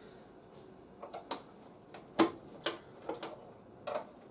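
Irregular light clicks and taps of hard plastic toy parts being handled and fitted together, about eight in a few seconds.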